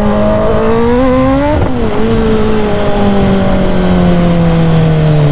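Kawasaki ZX-10R's inline-four through an SC Project exhaust, revving up for about a second and a half. The pitch then drops sharply and falls slowly as the bike rolls off the throttle and slows.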